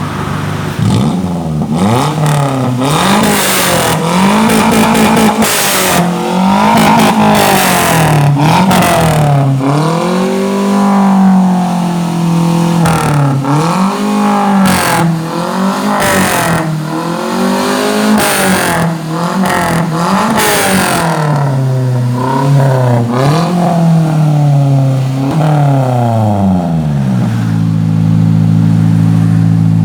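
Daihatsu Gran Max engine through a JS Racing aftermarket exhaust, revved in repeated throttle blips that rise and fall in pitch, then settling to a steady idle near the end.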